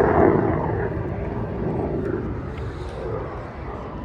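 Jet engine noise from U.S. Air Force Thunderbirds F-16 fighter jets, loudest at the start and fading steadily as the jets fly off.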